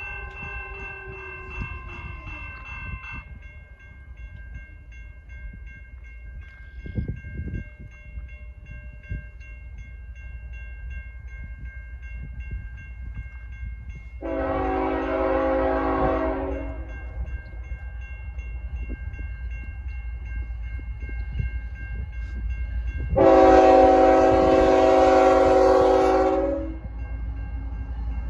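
Diesel locomotive horn sounding two chord blasts over the steady low rumble of an approaching train: one about halfway through and a longer, louder one near the end, with a third beginning just as it ends.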